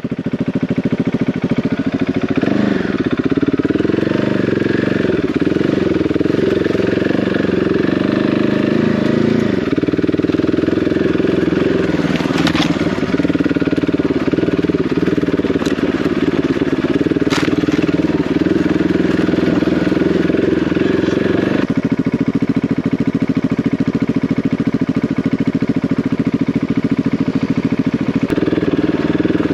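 Single-cylinder enduro motorcycle engine running at low, fairly steady revs while being ridden, the pitch shifting with the throttle a few times. Two sharp knocks stand out partway through.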